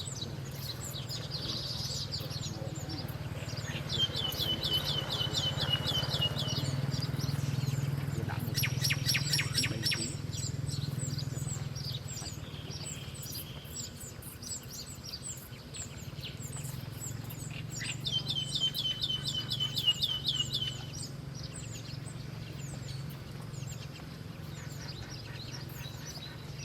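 Wild songbirds calling: scattered high chirps, and twice a fast trill of notes sliding down in pitch for about three seconds, with a quick rattling run of notes in between. A steady low hum runs underneath.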